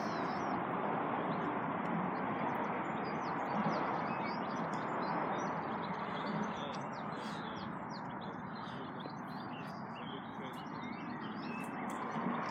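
Birds chirping and singing with many short, high calls over a steady rushing background noise.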